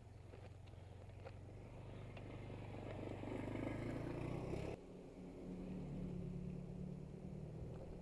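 A motor vehicle engine running, getting steadily louder as it draws closer, then cut off abruptly a little under five seconds in. A different low engine hum follows.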